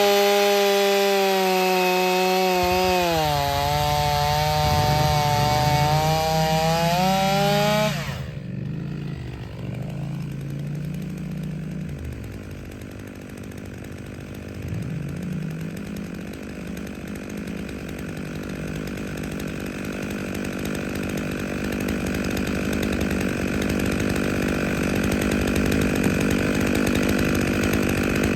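Stihl 500i fuel-injected two-stroke chainsaw running at full throttle, its pitch sagging as the chain bites into wood. About eight seconds in the sound drops suddenly to a lower, uneven running that slowly grows louder toward the end.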